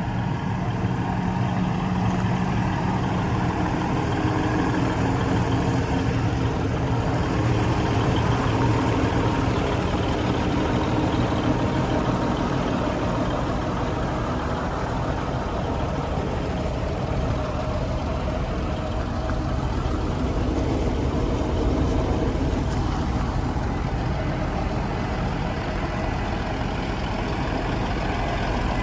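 Diesel multiple unit's engine idling steadily.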